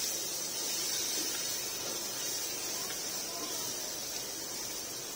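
Onion, tomato and spice masala sizzling steadily in a pot: an even hiss of frying.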